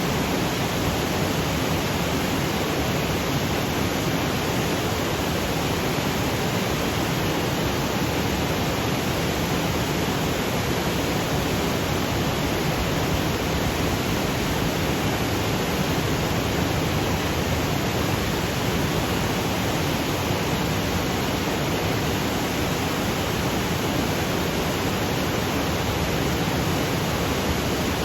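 Waterfall cascading over granite boulders: a steady, even rush of water with no breaks or changes.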